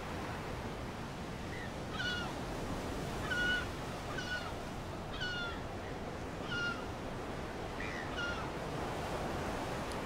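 Steady wash of surf on a rocky shore, with a bird giving a series of short, high, mewing calls, about one a second, from about a second and a half in until near the end.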